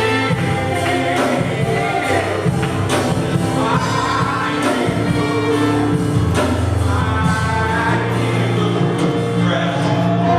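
Congregational worship song: a group of voices singing over a band with a steady beat.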